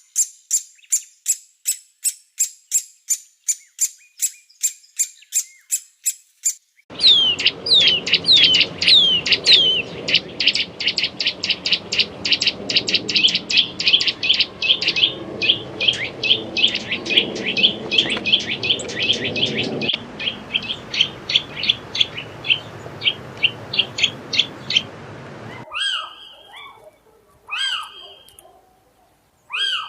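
Bird calls from three species in turn. First, great spotted woodpecker calls: sharp high notes repeated fast, about five a second. Then a Eurasian nuthatch sings for about twenty seconds, with ringing downslurred whistles followed by a long, fast, rapid trill of repeated notes. Near the end come a few separate, rising-and-falling mewing calls of a little owl.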